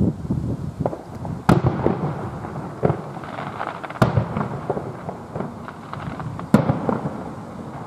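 Fireworks display: aerial shells bursting, with three sharp bangs about 1.5, 4 and 6.5 seconds in amid many smaller pops, crackles and low booms.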